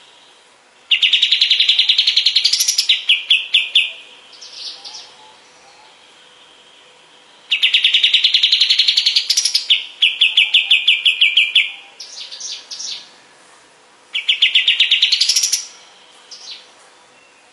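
A kapas tembak songbird singing three bouts of rapid trilled notes, each climbing in pitch near its end and then breaking into a quicker run of notes. Faint steady hiss lies between the bouts.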